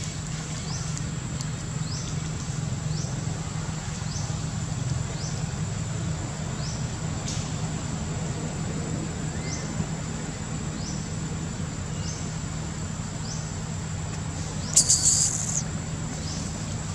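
A bird repeating a short rising chirp about once a second, over a steady high insect drone and a low hum, with one brief, loud, high-pitched squeal near the end.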